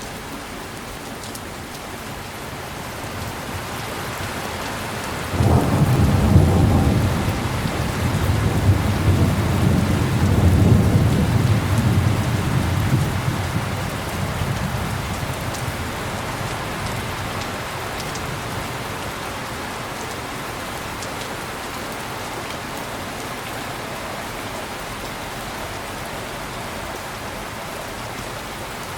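Heavy rain falling steadily, with a thunderclap breaking in about five seconds in and rolling on, deep and low, for several seconds before dying away under the rain.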